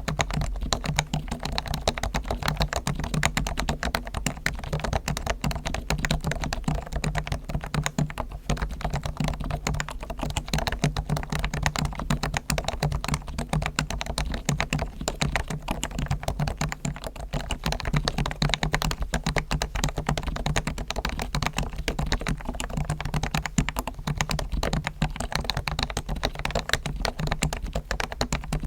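Rapid, continuous typing on a Realforce R1 Topre electrostatic-capacitive keyboard whose spring sliders and stabilisers are lubricated with Krytox and whose case is foam-dampened, the keystrokes running together in a dense, even stream of clicks.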